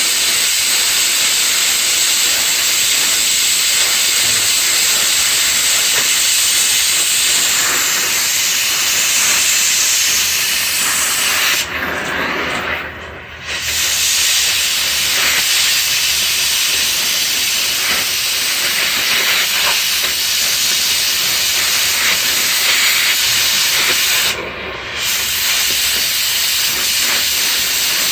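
Oxy-acetylene cutting torch hissing steadily while cutting bolts. The hiss breaks off briefly about twelve seconds in and again about twenty-four seconds in.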